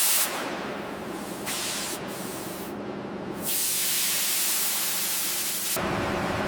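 Loud, steady hissing like escaping air or spray, broken into several segments that cut in and out abruptly. Near the end it gives way to a steady machinery hum with a low drone.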